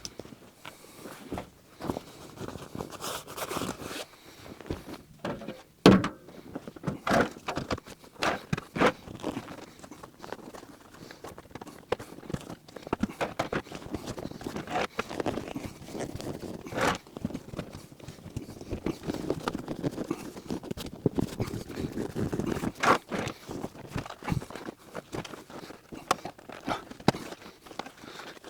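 Irregular clicks, knocks and rustling as the upholstered cover of a Mercedes C-Class driver's seat is worked onto the seat and fastened with small push-on hooks; a sharp knock about six seconds in is the loudest.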